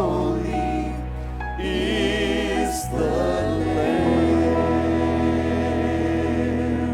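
Church worship singing with instrumental accompaniment: voices move through a phrase, then hold a long chord over steady bass notes through the second half.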